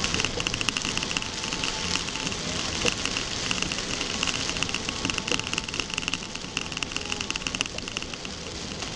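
Rain hitting a moving car's windshield and body, heard from inside the cabin: a steady hiss of rain with many small drop ticks.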